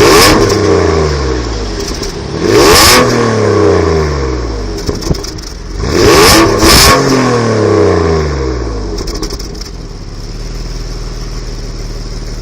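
Alfa Romeo 166 3.0 V6 exhaust, revved in three quick throttle blips. After each blip the revs fall back, and the engine settles to a steady idle near the end.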